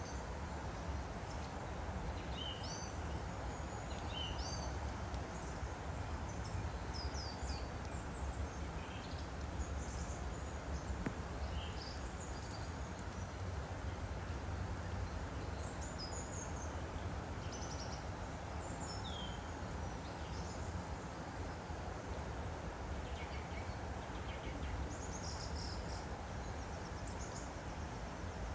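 Woodland stream flowing with a steady rush, while small birds chirp and call in short high notes on and off throughout, clustered near the start and near the end.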